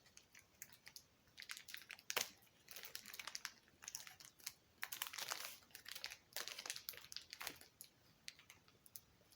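Packaging crinkling and rustling in irregular bursts as a small part is worked out of it by hand, with a sharper crackle about two seconds in.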